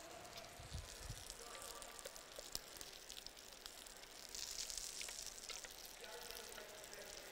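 Curry paste going into a pan of hot oil and frying with a faint sizzle, with scattered clicks of a spatula scraping the blender jug. A brief louder burst of sizzling comes about halfway through.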